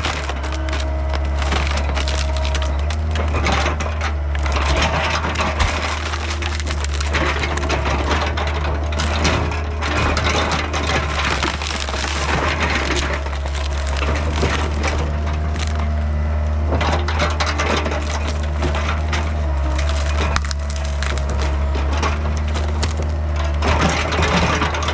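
Diesel engine of a Yanmar B50 compact excavator running steadily while wood crunches, cracks and splinters under the machine as it breaks up a fallen hickory tree.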